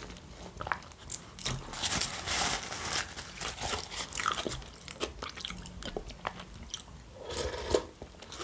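Close-miked mouth sounds of chewing and crunching crisp food, likely dry baguette croutons, a dense run of small cracks and bites.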